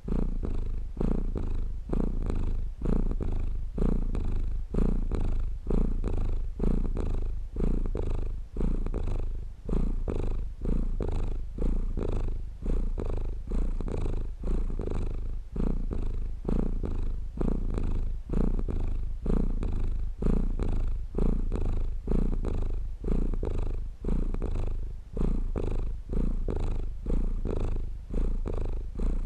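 A domestic cat purring steadily: a low rumble that swells and fades with its breathing, about once a second.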